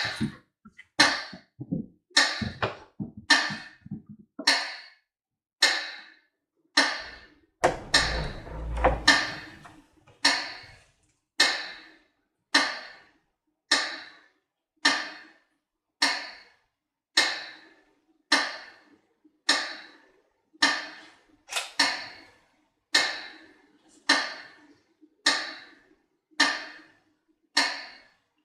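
Slow, even metronome beats, about one a second, marking a minute of silence. In the first seconds they come with irregular rustling and a brief low rumble.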